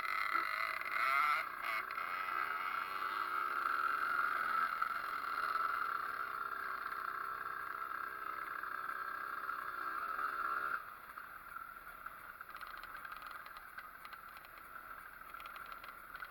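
Pit bike's Zündapp two-stroke engine running, its revs wavering up and down, then cutting off abruptly about eleven seconds in.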